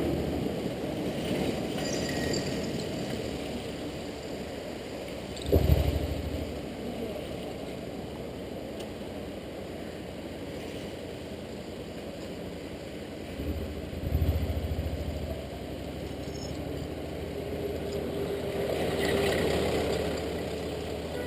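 Honda Integra NC750D's parallel-twin engine running on the move, with steady road and wind noise. It surges louder twice, briefly, about five and a half and fourteen seconds in, and swells again near the end.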